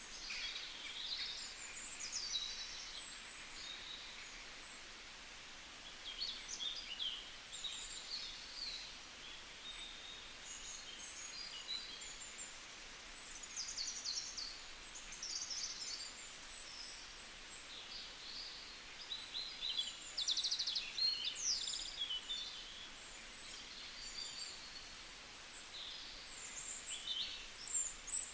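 Several songbirds chirping and singing at once, a busy mix of short high calls and quick trills overlapping one another, over a faint steady hiss.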